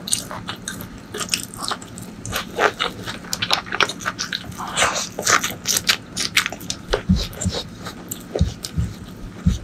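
Close-miked eating of jackfruit curry, fried okra and rice: wet chewing and lip smacks with quick irregular clicks and some crunchy bites. A few dull low thumps come near the end.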